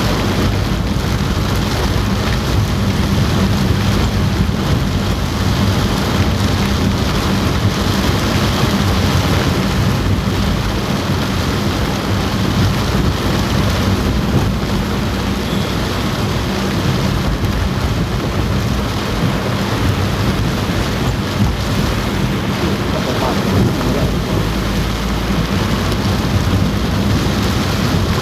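Heavy rain falling steadily on a car roof, heard from inside the car, with a steady low rumble underneath.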